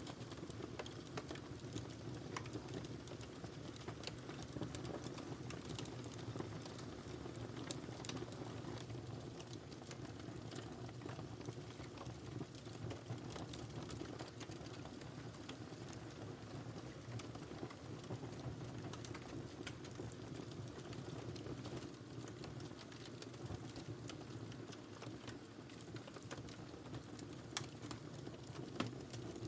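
Wood fire burning in a fireplace: a steady low rush of flames with frequent small crackles and pops, a couple of them sharper near the end.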